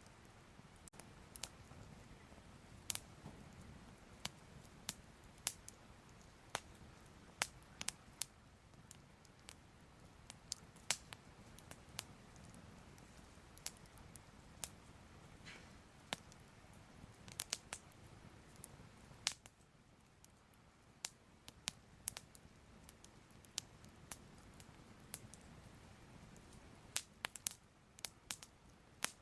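Soft crackling fire: irregular, sharp pops and snaps, roughly one or two a second, over a faint low rumble.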